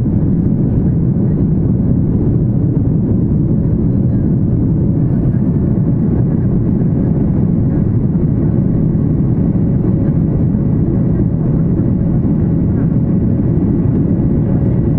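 Steady low rumble inside an airliner cabin: the engines and airflow of the plane in flight.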